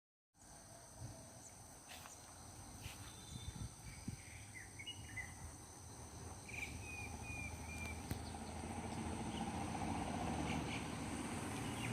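Countryside ambience: insects trilling steadily at a high pitch, with a few short bird chirps, including a run of four quick notes about halfway. A low rumble grows louder toward the end.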